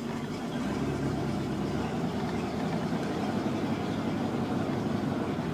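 1993 Kayot Ultima boat's engine running steadily out of the water, fed by a garden hose for cooling.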